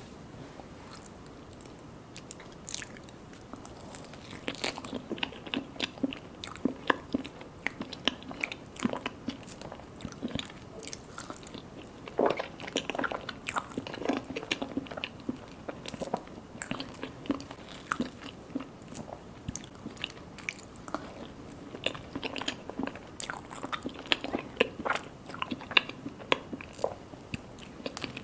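A person eating mini mousse cakes, chewing and biting into them, with a rapid run of short wet mouth clicks and an occasional crunch. The clicks are sparse at first and become steady from about four seconds in.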